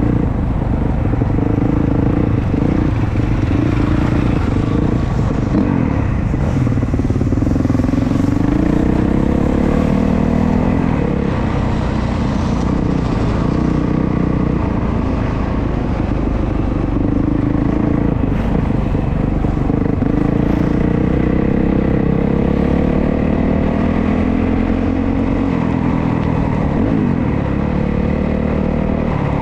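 Motocross dirt bike engine running hard, its pitch rising and falling over and over as it is revved and shifted.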